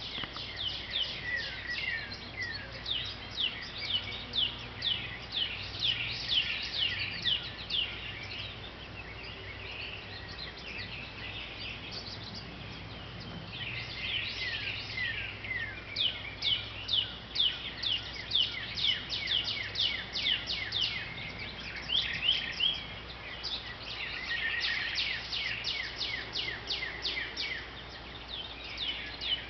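Small songbirds chirping in fast runs of short, high, down-slurred notes, with a lull about a third of the way in.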